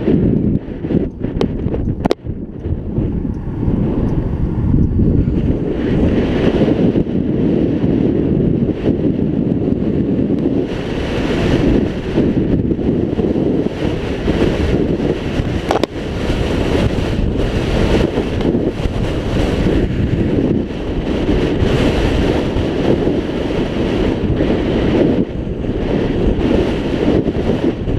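Wind buffeting the camera microphone on a moving scooter: a loud, continuous rumbling roar, with a few sharp knocks in the first couple of seconds.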